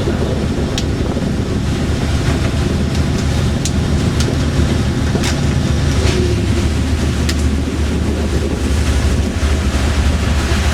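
Fishing boat's engine running steadily with a low hum, under wind buffeting the microphone and the rush of the sea, with a few faint clicks.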